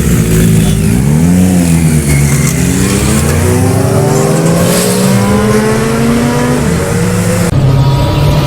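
Superbike engine revving: a quick rise and fall in pitch about a second in, then a long steady climb that drops off suddenly near the seven-second mark.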